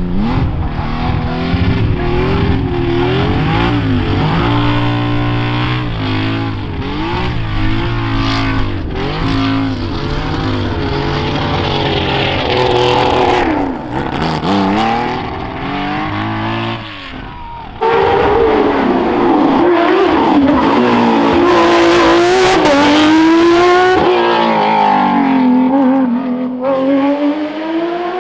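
Porsche rally car engines at full throttle, the revs climbing and dropping sharply through gear changes and lifts. The sound jumps abruptly twice, about two-thirds through and again later, as one car gives way to another.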